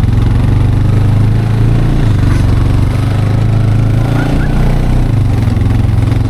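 Four-wheeler (quad ATV) engine running close by at a steady, low engine note.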